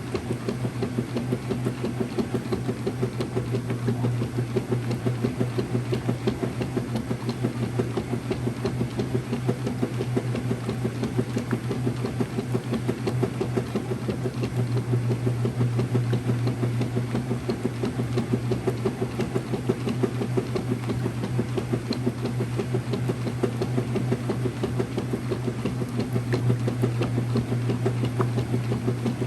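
Early-2000s Whirlpool direct drive washing machine running: a steady motor hum with a fast, even pulsing over it.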